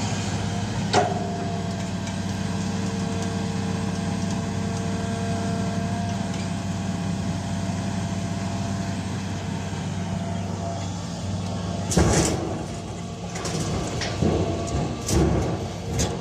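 Diesel engine of heavy earth-moving machinery running steadily. There is a sharp knock about a second in, and a cluster of loud clanks and thumps in the last few seconds.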